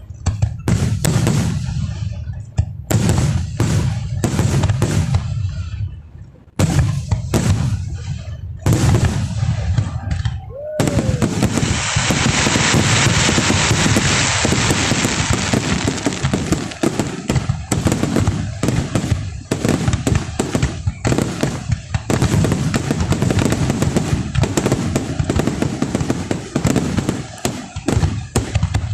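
Fireworks display: a string of separate loud booms for the first ten seconds. From about eleven seconds in, a dense, continuous crackling takes over, with booms mixed in, until the end.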